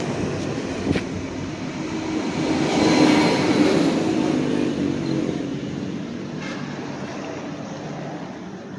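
A vehicle passing by: its noise builds to a peak about three seconds in, then fades away.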